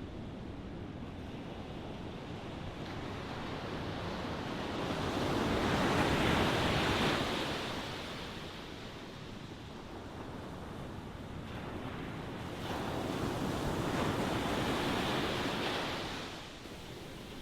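Ocean waves surging and falling back: two swells of surf, the first peaking about six seconds in and the second about fourteen seconds in, over a steady wash.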